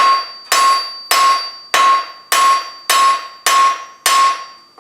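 Small ball peen hammer striking a cold horseshoe-nail rivet, about eight steady blows, one roughly every 0.6 s, each ringing in the steel; it is setting the rivet that fastens a mild-steel hook to the plate.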